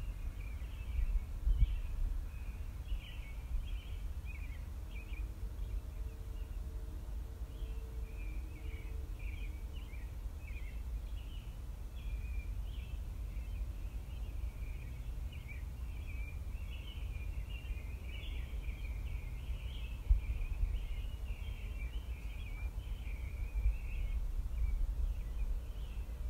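Small birds chirping and twittering in quick clusters without a break, over a steady low rumble, with a couple of brief knocks.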